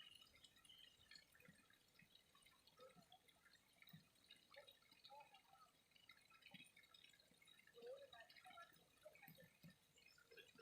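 Faint water trickling and dripping: many small, irregular drips and plinks.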